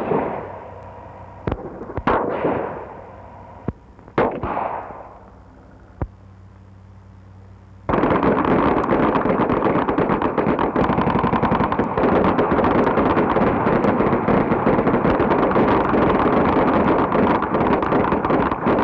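Gunfire: several single shots, each with an echoing tail, over the first six seconds, then from about eight seconds in a long, unbroken stretch of rapid automatic fire.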